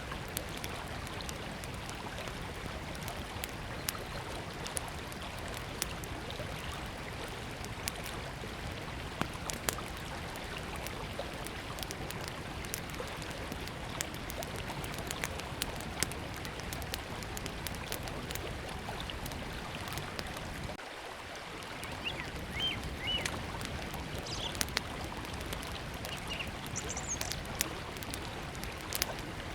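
Small wood campfire crackling with frequent sharp pops over the steady rush of a flowing river. A few short bird chirps come in during the second half.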